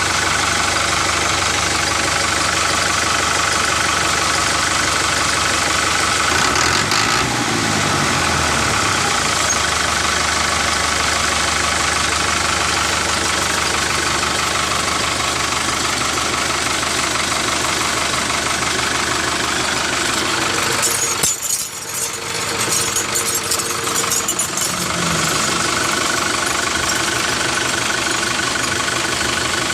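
A motor running steadily, like an idling engine. It dips briefly and rattles about two-thirds of the way through, then settles back to a steady run.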